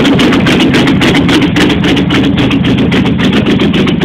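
1989 Jeep Grand Wagoneer's AMC 360 V8 running loudly on a cold start, with a rapid crackle of sharp ticks or pops, about eight to ten a second, over the steady engine note.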